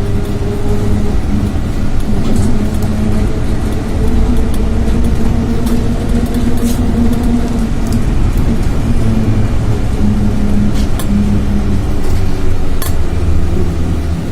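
Trolleybus interior while driving: the electric traction motor hums in steady tones that slowly rise and fall in pitch with speed, over a continuous low road rumble. Short sharp clicks and rattles come now and then.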